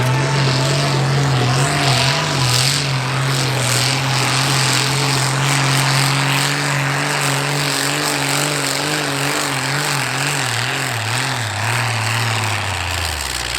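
Continental AVI-1790-8 V12 tank engine (29.4 litres, from an M48 tank) in a pulling tractor, running at high, steady revs under load during a pull. Its pitch wavers in the second half and drops away near the end as it comes off the throttle.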